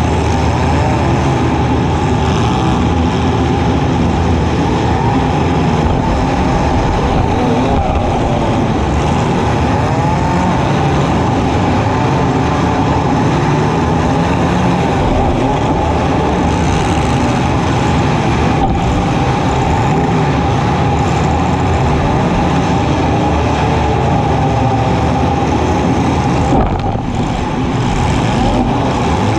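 Compact demolition derby car's engine running loud and hard, its pitch rising and falling as it revs.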